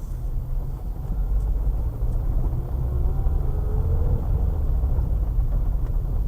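Car engine and road noise heard inside the cabin while driving: a steady low rumble that grows slowly louder, with a faint rising whine in the middle.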